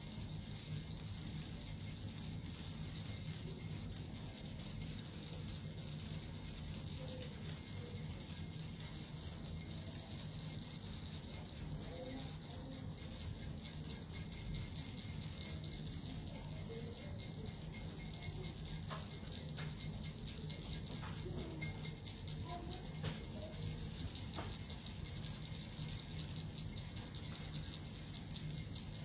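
Suzu bells and a metal rattle shaken without pause, a steady, unbroken jingling.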